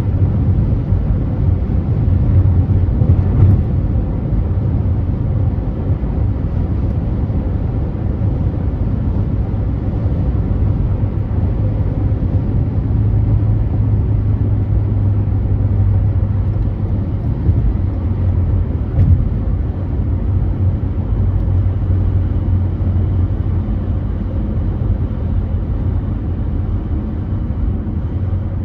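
A car driving along a freeway: steady low rumble.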